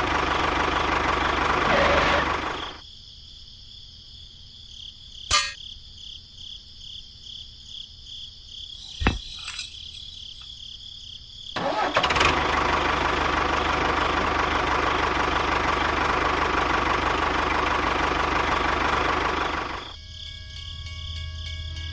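A small motor on a mini tractor model running steadily, cutting out about three seconds in. After a quieter stretch broken by two sharp clicks, it runs again for about eight seconds and stops near the end.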